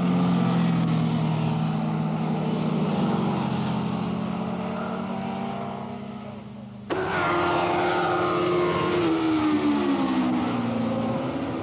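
Superbike racing motorcycle engines running hard at high revs. About seven seconds in the sound cuts abruptly to another bike whose engine note falls in pitch as it goes by.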